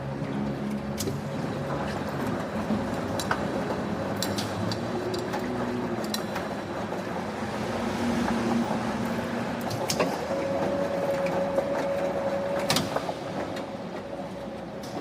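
Factory machinery running steadily with scattered sharp metallic clicks and knocks, and a steady tone that sounds for about two seconds a little after the middle.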